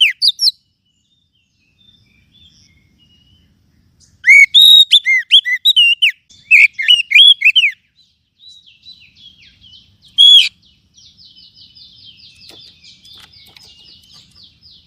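Oriental magpie-robin (kacer) singing. A burst of loud whistled notes that arch up and down starts about four seconds in and lasts a few seconds, with one more loud note near ten seconds. After that comes a faint, fast chattering trill of about six notes a second.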